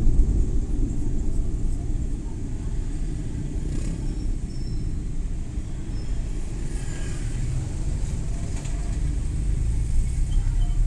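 Suzuki Every Wagon kei van driving on city streets: steady low engine and tyre rumble, easing slightly a couple of seconds in and building again near the end.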